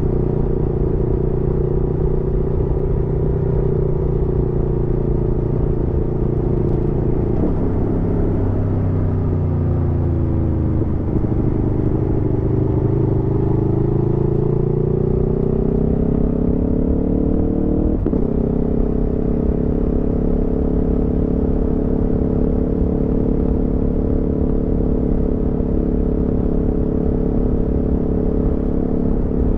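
Aprilia Tuono V4 motorcycle's V4 engine on the move. It holds a steady note, then the note falls for a few seconds as the bike slows. After a gear change it climbs steadily for several seconds under acceleration, then another shift about two-thirds of the way through, and it settles into a steady cruise.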